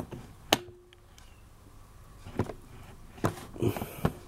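A few scattered handling knocks and clicks. The sharpest comes about half a second in, as the camera is set back down, and fainter ones follow later.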